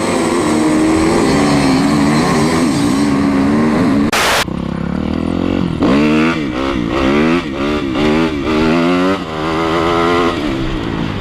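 Motocross bike engine revving up and down over and over as the throttle is opened and closed, its pitch rising and falling quickly in the middle. A short burst of loud rushing noise comes about four seconds in.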